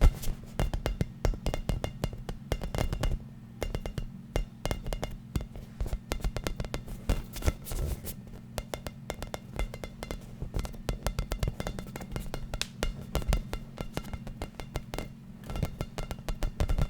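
Fast, irregular hand tapping on a hard object in quick flurries, with brief pauses. Many taps leave a faint ringing tone, over a steady low hum.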